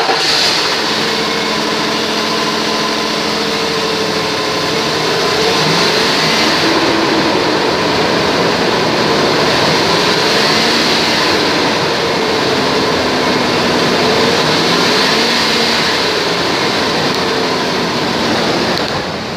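2004 Ford Explorer engine idling steadily just after being started, its pitch wavering slightly, with a steady hiss over the top.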